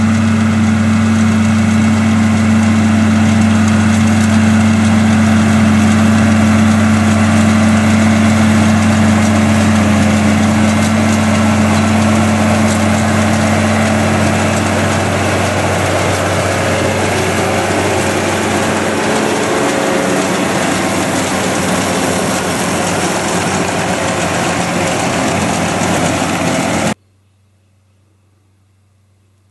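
Tractor engine running steadily at a constant speed while baling hay. Near the end it cuts off suddenly.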